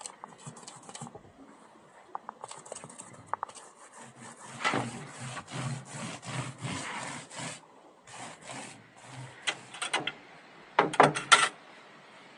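Repeated scraping or rubbing strokes, several a second, in uneven runs, with a quicker, louder flurry near the end.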